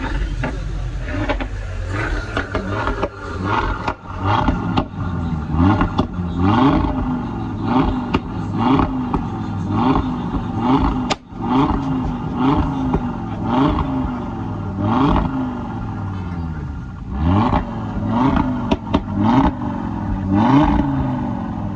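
Car engine being revved in short repeated throttle blips, pitch rising sharply and dropping back about once a second, with a sharp click about halfway through.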